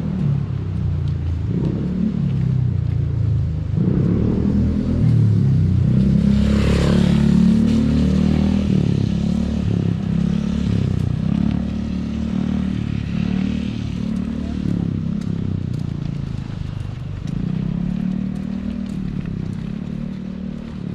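A motor vehicle's engine running close by, its pitch rising and falling. A brief hissing rush comes about six to seven seconds in.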